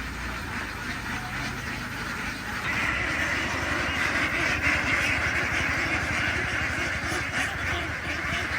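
A large flock of domestic ducks quacking together in a dense, overlapping chorus that grows louder about three seconds in.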